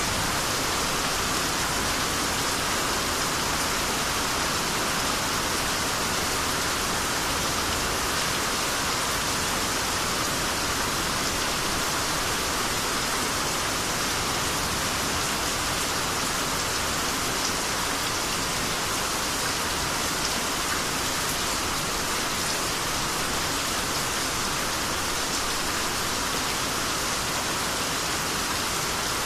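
Steady heavy rain falling and pattering on surfaces, an even hiss with no thunder in this stretch.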